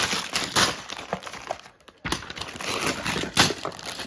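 A LEGO set's packaging being opened: cardboard and the plastic parts bags inside crinkling and rustling by hand, in two spells with a short pause about two seconds in.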